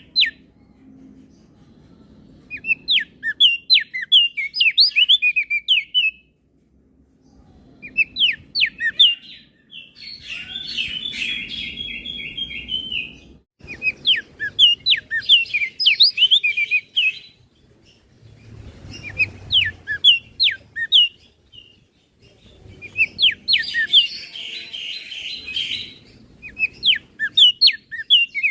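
Crested white-eye (opior jambul) singing: bursts of quick, high, sweeping chirps lasting a few seconds each, separated by short pauses, with some phrases run together into a dense, buzzy twitter.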